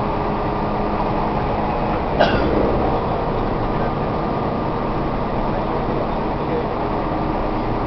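Steady running noise inside a Tobu 1800 series electric train car under way, a rumble with faint steady tones. A single sharp knock sounds about two seconds in.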